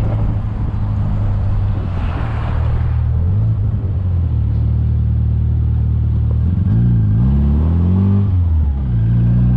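Engine of a Rover K-series-swapped MG Midget running on the move. Its note drops in pitch about three seconds in, then rises and falls twice near the end.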